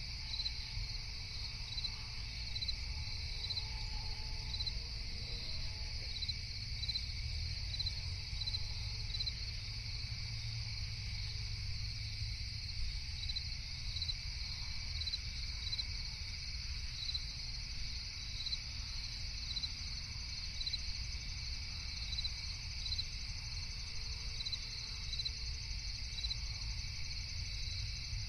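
A night chorus of crickets trilling steadily, with one chirp repeating about twice a second, over a low steady rumble.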